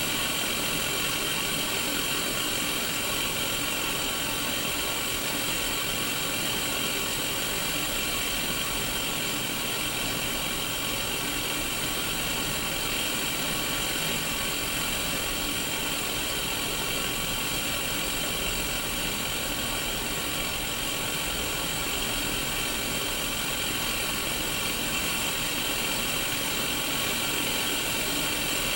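Steady static hiss from a Sony Mega Watchman black-and-white CRT TV showing white noise with no signal, heard through its small built-in speaker.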